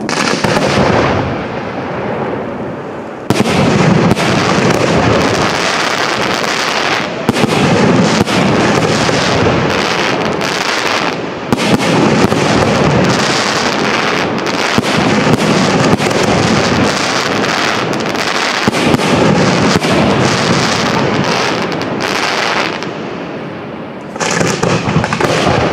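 Fireworks display: aerial shells bursting in a dense, near-continuous barrage of bangs and crackles. It starts in earnest about three seconds in and eases off shortly before the end.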